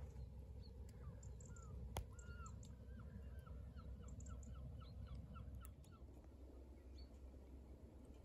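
Faint bird calls: a quick run of short notes, about three a second, which stops a little past halfway, over a low steady rumble. A single sharp click comes about two seconds in.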